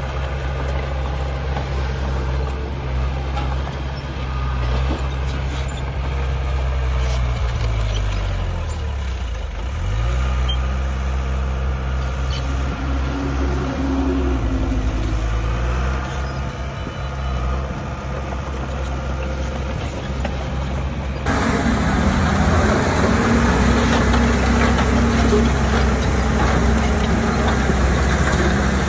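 Diesel engine of heavy earthmoving machinery running steadily, its pitch dipping and coming back up about ten seconds in as it takes load. About two-thirds of the way through the sound changes abruptly to a louder, noisier engine.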